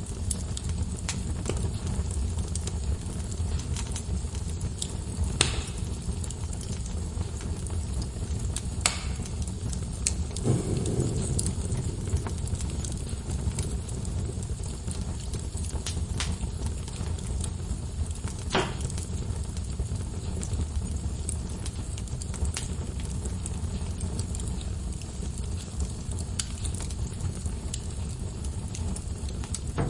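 Wood logs burning in a fireplace: a steady low rumble of flames with scattered sharp pops and crackles, a few of them louder snaps.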